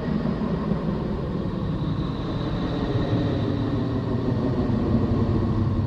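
Space recording of Neptune's electromagnetic emissions converted to sound: a steady rumbling roar like hurricane winds, with a faint high tone held above it.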